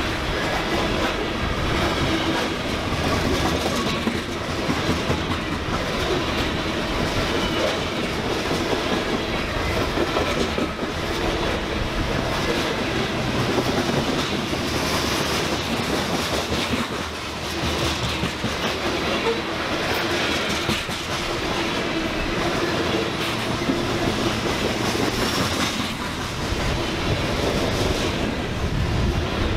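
Freight train cars rolling past on the BNSF line, a steady rumble with wheels clicking over the rail joints.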